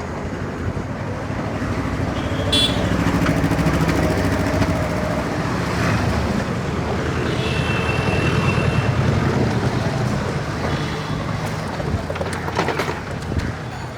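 Busy Indian street traffic: engines of cars and motorbikes running and passing in a steady din, with short high horn toots about two and a half and seven and a half seconds in.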